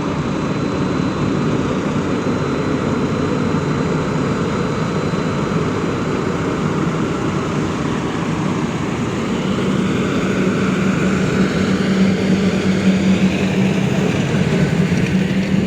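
Excavator's diesel engine running steadily, growing louder about nine seconds in.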